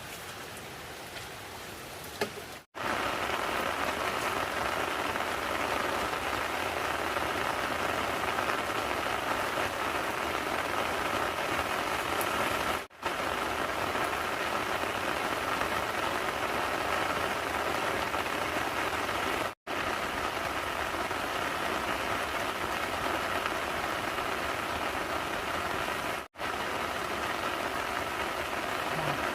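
Steady rain falling, an even hiss, quieter for the first two seconds and broken by four brief dropouts.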